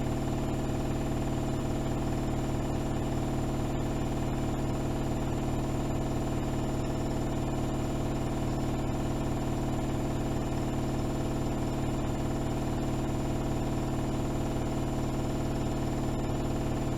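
AEG Öko-Lavamat 76730 front-loading washing machine in its high-speed final spin: the drum turns at speed, giving a steady, even hum with a fast low pulsing.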